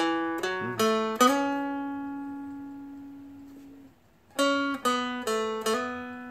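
Seagull Merlin, a small fretted dulcimer-style instrument, picked one note at a time to play a slow melody line. Four quick notes, one sliding up in pitch, with the fourth ringing out for about three seconds, then four more notes.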